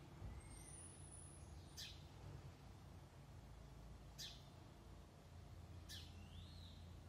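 Near silence with faint small-bird calls: three short sharp chips about two seconds apart and a couple of thin whistled notes.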